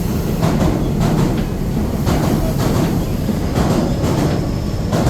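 Train running on the rails: a loud steady rumble with irregular clacks of the wheels over rail joints.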